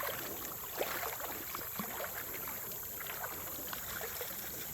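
Creek water running steadily, with faint scattered clicks and taps through it.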